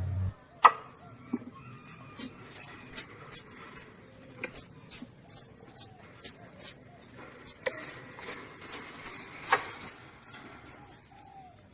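Baby palm civet squeaking: a rapid run of short, high squeaks, each falling in pitch, about three a second, with a couple of sharp clicks among them.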